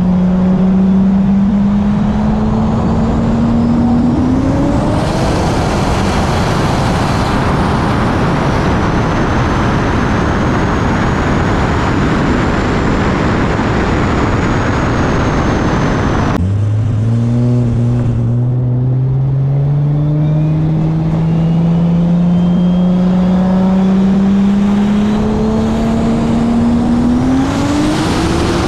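Single-turbo Toyota 2JZ inline-six in a Lexus IS300 pulling hard at full throttle on wastegate boost, its note climbing steadily under a loud rush of intake and wind noise. About two-thirds through the pitch drops abruptly, then climbs again in a long steady pull.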